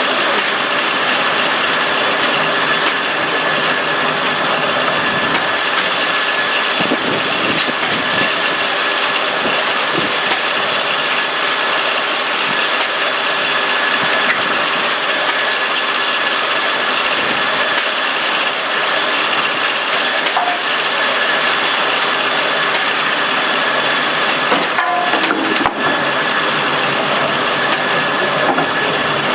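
Sawmill running, its circular saw blade cutting a log: a steady whine over a hiss, with a couple of short knocks about 25 seconds in.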